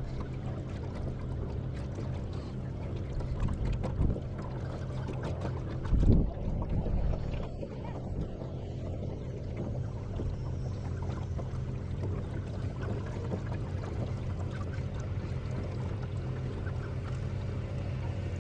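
A small boat's motor running steadily at low speed as the boat nears the shore, with a couple of bumps or knocks about 4 and 6 seconds in.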